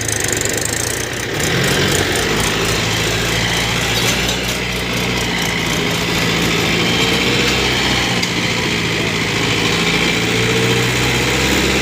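Tractor engine running steadily, its pitch rising a little about a second in and then holding.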